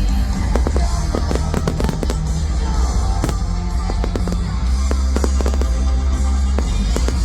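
Fireworks going off in rapid, irregular bangs and cracks over loud show music played through speakers.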